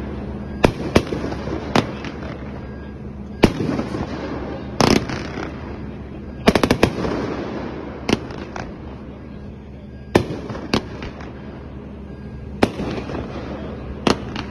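A 34-shot, 500-gram consumer fireworks cake firing: sharp reports of shells bursting overhead about once a second, some in quick pairs or clusters, over a steady background noise.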